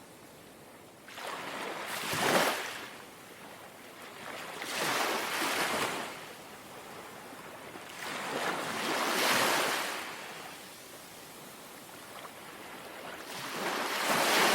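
Small, gentle sea waves lapping on the shore: four soft swells of wash, each building and falling away, with a quieter hiss between them.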